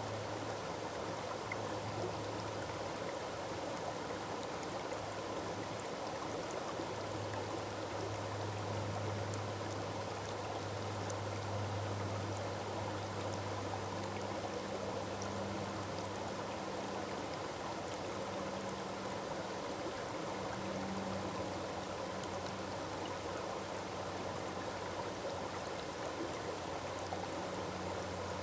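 Forest waterfall rushing steadily: a continuous wash of falling water with a low rumble beneath it.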